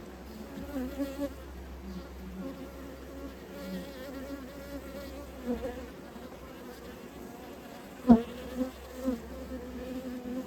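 Honeybees buzzing around an open hive, a steady wavering hum that rises and falls as bees pass close. About eight seconds in there is one sharp, loud thump.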